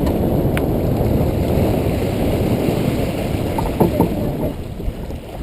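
Strong wind buffeting the microphone aboard a small sailboat, a steady low rumbling rush, with a sharp click about half a second in and a few brief knocks around four seconds in.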